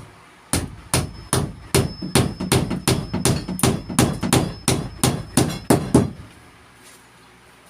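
Hammer driving a nail into wood: a steady run of about fifteen sharp blows, roughly three a second, that stops about six seconds in.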